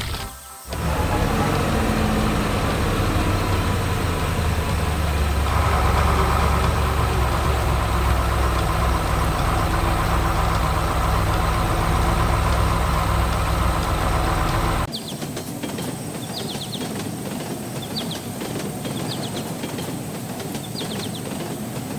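Heavy machinery engine running steadily, growing louder about five seconds in, then cutting off abruptly about two-thirds of the way through. It is followed by a quieter background with short high chirps.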